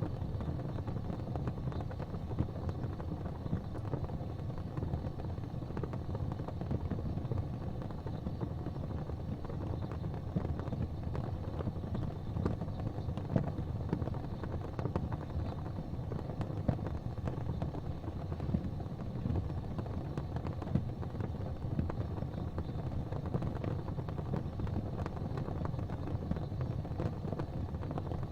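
Gas fireplace flames burning with a steady low rumble, with faint scattered ticks.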